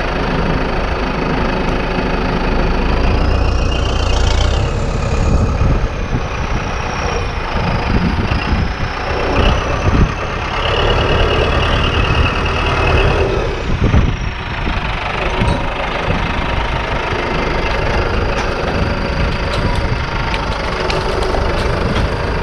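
An engine running steadily during tree felling, with a faint high whine that rises and falls, and a few sharp cracks about ten and fourteen seconds in.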